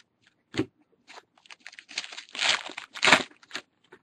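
Handling of baseball trading cards and their foil pack wrappers: crinkling and rustling with scattered sharp clicks, and two louder crinkles about two and a half and three seconds in.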